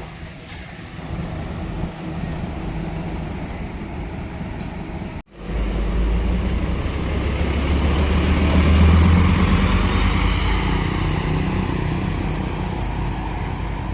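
Steady traffic noise, then after a sudden cut about five seconds in a Scania K270UB city bus's diesel engine pulls away. Its deep engine note builds to a peak a few seconds later and then eases off gradually.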